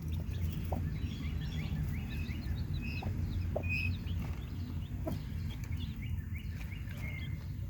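Newly hatched chicks peeping in many short, high chirps, with a broody hen giving a few low clucks now and then. A steady low hum runs underneath.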